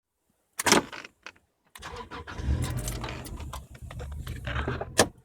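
Keys rattling, then a 1993 Subaru EJ22 2.2-litre flat-four starting about two seconds in and running with a low, uneven rumble and irregular clicks: the rough idle. A sharp click near the end.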